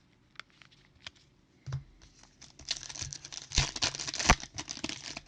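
Trading cards and a foil pack wrapper being handled: a few scattered light clicks, then from about two and a half seconds in a dense crinkling rustle with two sharper clicks as the next pack of cards is opened.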